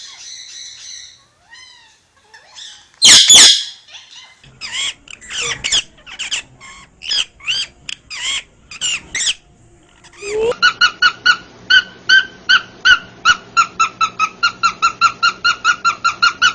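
Pet parrots calling: a loud squawk about three seconds in, then a run of quick chirps. From about ten seconds in comes a fast, even string of repeated call notes, about four a second.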